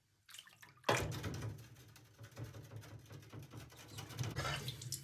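Scrubbing a grease stain with Gumption cleaning paste: rough, uneven rubbing strokes that start with a knock about a second in.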